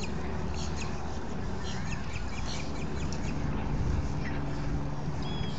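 Birds calling with short high notes scattered throughout, over a steady low rumble.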